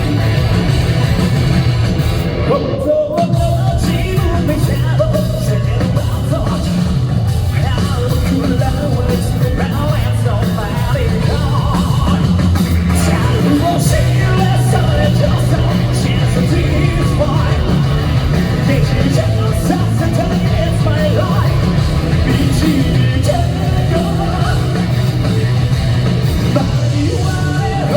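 A Japanese rock band playing live, with a male lead singer over electric guitar, bass and drums, recorded loud from the audience. There is a brief break in the music about three seconds in.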